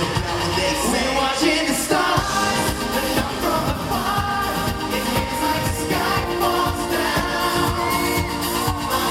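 Live pop song: singing over an electronic dance-pop backing with a steady beat.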